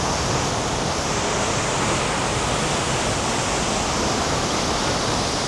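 Steady roar of a large waterfall: water crashing down into a pool, an even rushing noise with no breaks.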